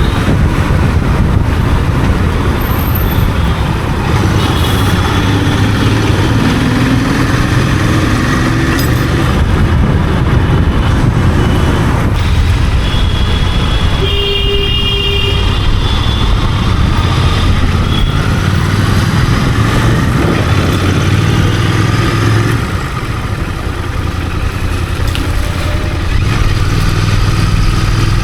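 Royal Enfield Continental GT 650's 648 cc parallel-twin engine running through its stock exhaust at a steady throttle while riding, with road and wind noise. A vehicle horn sounds briefly about halfway through, and the sound drops for a few seconds near the end before picking up again.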